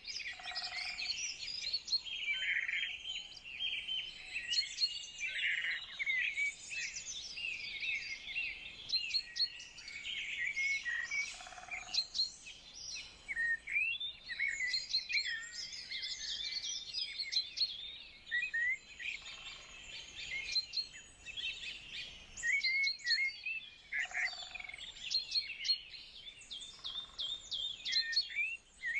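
A chorus of small songbirds chirping and singing, many short overlapping calls and trills.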